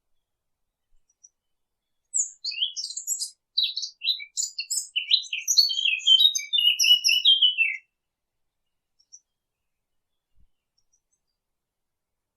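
Songbird singing one long phrase of quick, varied high chirps and trills, starting about two seconds in and stopping abruptly about six seconds later.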